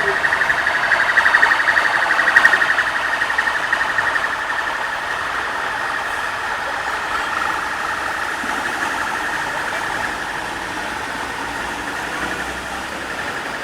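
Heavy rain pouring down in a steady, loud rush that swells about two seconds in, then slowly eases.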